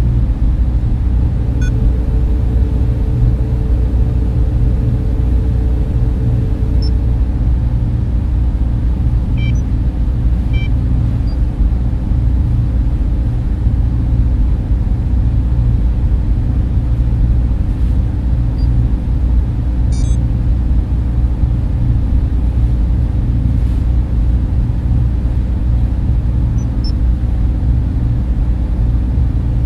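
Data center server-room ambience: the steady, loud low rumble of cooling fans and air handling, with a steady hum. A few faint high ticks are scattered through it, and a faint extra tone is held for several seconds near the start.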